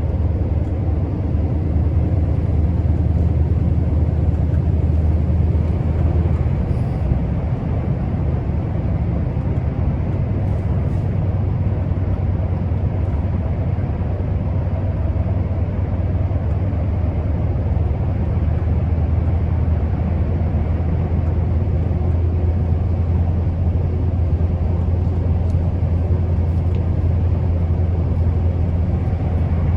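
Scania R650's 16-litre V8 diesel truck engine running steadily on the move, a continuous low drone with road noise.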